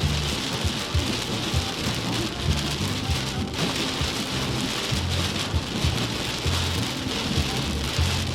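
Heavy rain from a rainstorm falling hard and steadily: a dense hiss with frequent short low knocks.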